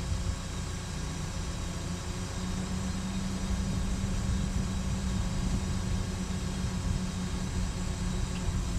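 Cat 314E excavator's diesel engine running steadily with a low hum, which gets a little stronger about two seconds in.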